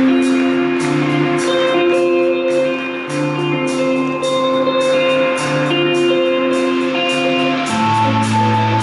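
Rock band playing an instrumental intro live: guitar and held chords over a bass line, with a steady beat ticking about twice a second.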